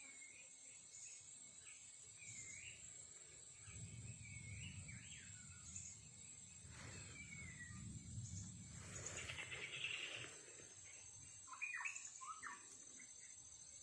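Wild birds chirping, with short calls that glide up and down and are scattered throughout, over a steady high-pitched hum. A low rumble runs through the middle, and a brief hiss comes about two-thirds of the way through.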